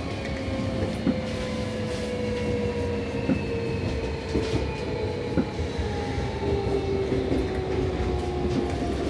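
Seibu 6000 series train's Toshiba IGBT inverter and traction motors whining in a steadily falling pitch as the train slows under braking coming into a station, over wheel-on-rail rumble. A few sharp wheel clacks over rail joints cut through.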